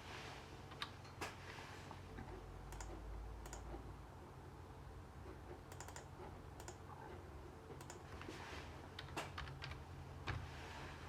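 Faint, irregular clicks and taps, a dozen or so scattered unevenly, over a low steady hum.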